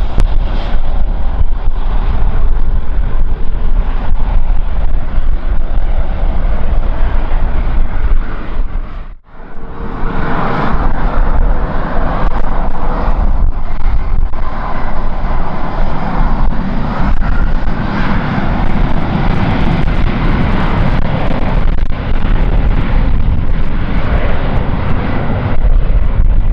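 Jet airliner's engines at takeoff power on its takeoff run, under heavy gusting wind rumbling on the microphone. The sound dips almost to nothing for a moment about nine seconds in.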